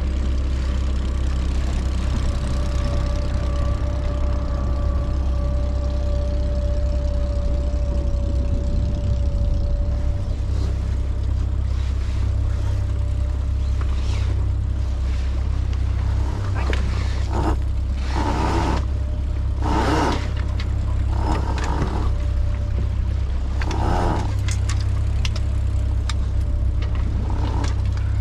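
A sailboat's engine running steadily under way, a loud low drone. A faint whine fades out in the first third, and several short bursts of noise come over it in the second half.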